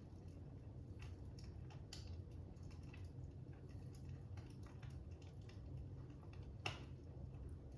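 Faint fire crackling: a low steady rumble with irregular small pops and snaps, one sharper pop near the end.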